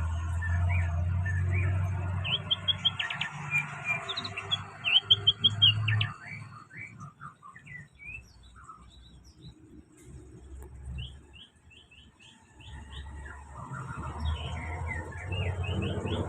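A songbird singing: series of quick high chirps and short trills, quieter with sparse notes in the middle and busier again near the end. A low rumble runs underneath in the first six seconds and again near the end.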